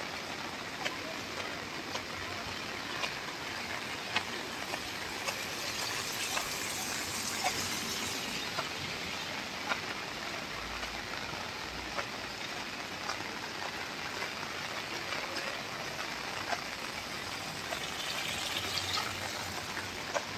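Steady rain falling, a continuous hiss with many single drops ticking on hard surfaces; the hiss grows stronger for a couple of seconds about six seconds in and again near the end.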